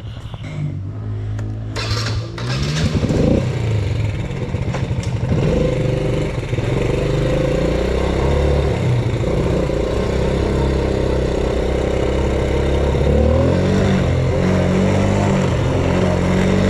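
The small single-cylinder four-stroke engine of a Yamaha Raptor 80 youth quad revving up about three seconds in, then running at a steady pace under way, its pitch shifting slightly.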